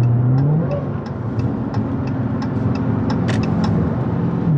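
Car engine droning inside the cabin while driving, its pitch rising about half a second in and falling back near the end. A turn-signal clicker ticks steadily, about three clicks a second, as the car takes the exit.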